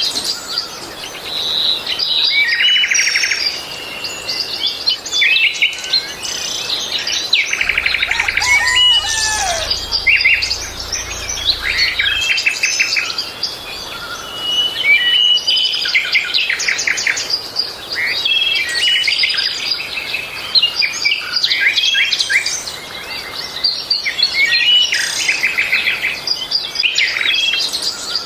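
Several songbirds singing at once, a dense mix of fast trills, short chirps and whistled notes that overlap throughout.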